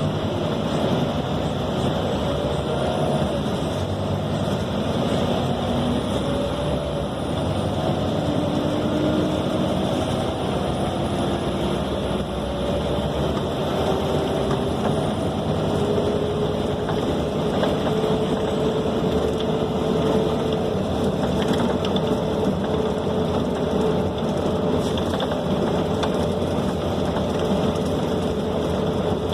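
Scania K270 city bus running under way, heard from inside the passenger cabin: steady diesel engine and road rumble, with a drivetrain whine that climbs slowly in pitch through the middle and then holds.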